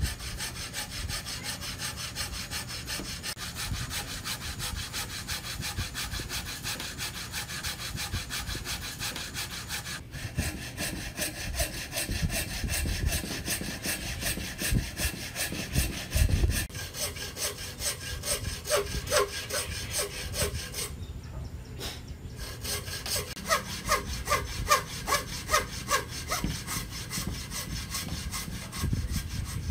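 Hand saw cutting through wood in quick, rhythmic strokes. The sound breaks off abruptly a few times and then carries on.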